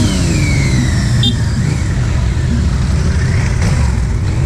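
Yamaha Niken GT's 847 cc inline-three engine running under way, its pitch rising and falling as it accelerates, under heavy wind noise on the microphone.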